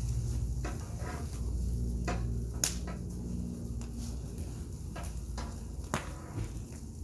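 Wood campfire burning, with scattered crackles and sharp pops over a low steady rumble; the loudest pop comes about two and a half seconds in.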